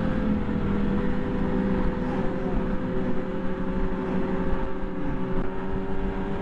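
Ski-Doo MXZ Blizzard snowmobile's two-stroke engine running steadily at trail-cruising speed, a constant whine with a low rumble under it; the pitch dips slightly in the first second.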